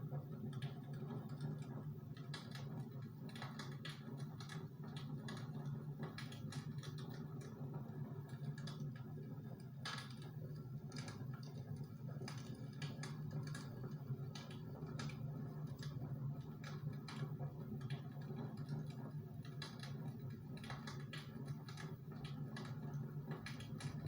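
Close-miked eating sounds: irregular soft clicks and crackles of chewing and mouth noises, over a steady low hum.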